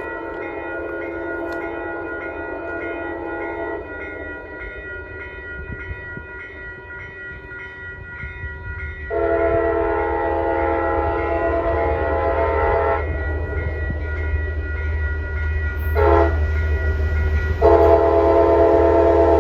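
Metro North train's multi-chime air horn: a long blast ending about four seconds in, another long blast, a short one, then a long one starting near the end, the pattern of a grade-crossing signal. Under it, the train's low rumble grows louder as it approaches.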